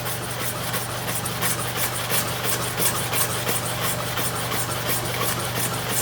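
Clipper cutting blade scraped back and forth on a sharpening stone under firm pressure, in quick, even strokes, over a steady low hum.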